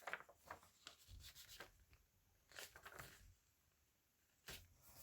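Faint rubbing and rustling of paper being handled and smoothed down by hand, in a few short strokes.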